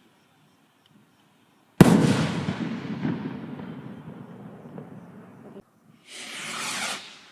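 A Wrecking Balls firework rocket bursts with one sharp, loud bang about two seconds in, followed by a long, fading tail of crackle and echo. Near the end the next rocket launches with a rising whoosh.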